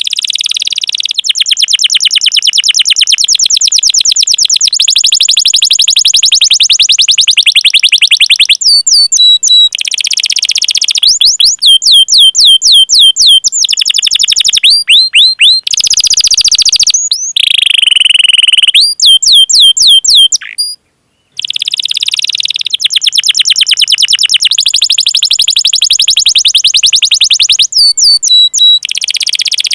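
Domestic canary singing: long, very fast rolling trills broken several times by runs of quick, rising 'cuit cuit' chirps, with a brief pause about two-thirds of the way through.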